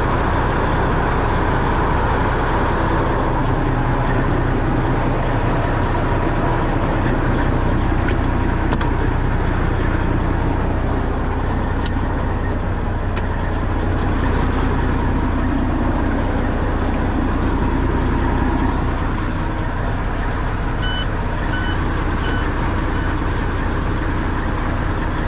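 Freightliner FLD semi truck's diesel engine idling steadily while it jump-charges a dead truck's batteries. Near the end, four short high-pitched beeps sound.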